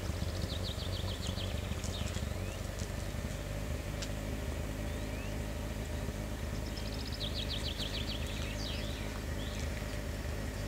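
A songbird singing two phrases, each a fast trill of short notes stepping down in pitch and ending in a brief flourish, about seven seconds apart, over a steady low rumble.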